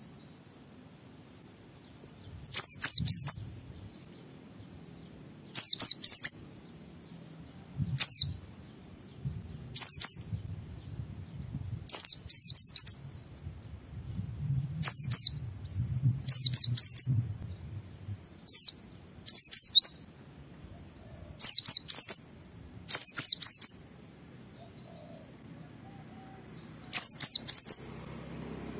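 White-eye (pleci) singing in short bursts of high, quickly falling twittering notes, repeated every two to three seconds.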